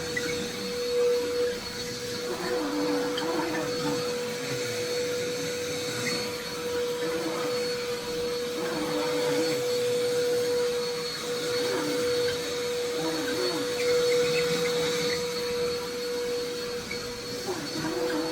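Vacuum cleaner running steadily with a constant motor whine as it is pushed over the floor.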